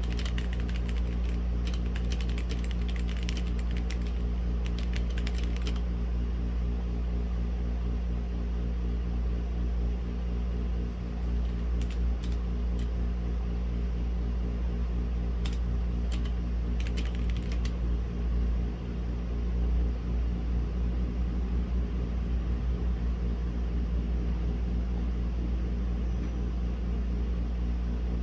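Typing on a Womier/Gamakay K87 mechanical keyboard with linear red switches. There is a quick run of keystrokes for the first six seconds, then short bursts around twelve seconds and again around sixteen to eighteen seconds. A steady low hum runs underneath.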